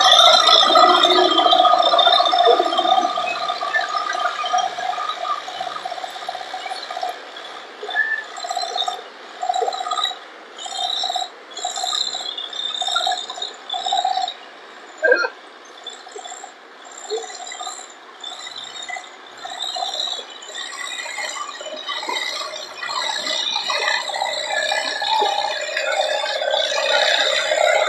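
Diesel tractor engines running with a rattling clatter, pulsing in short surges through the middle and building steadily near the end.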